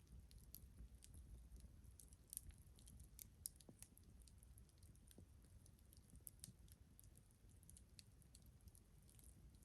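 Campfire crackling faintly, with scattered irregular sharp pops and ticks over a faint low rumble.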